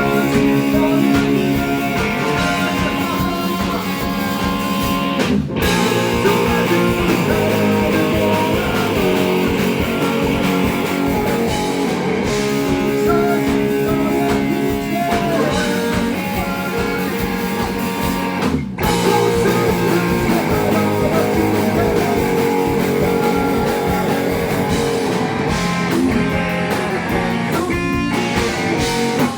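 Rock band music with guitar to the fore, playing steadily, broken by two very brief stops about five and a half and nineteen seconds in.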